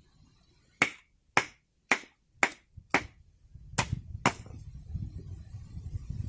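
A run of seven sharp clicks, roughly two a second with a short gap before the last two, and a low rumble coming in about halfway.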